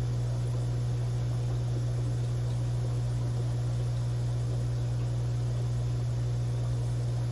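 Aquarium equipment running: a steady low hum with an even hiss behind it.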